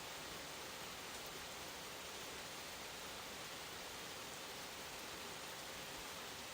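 Steady rain hiss with a faint, steady 528 Hz sine tone beneath it.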